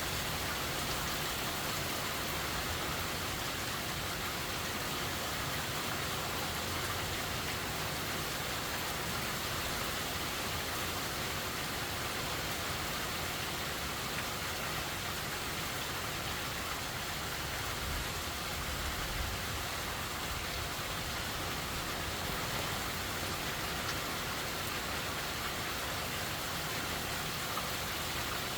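Steady heavy rain from Hurricane Helene falling at night, an even hiss with no change in strength.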